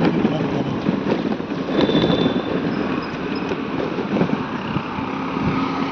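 Motorcycle riding along, its engine and road noise mixed with wind buffeting the microphone; a steady low tone joins near the end.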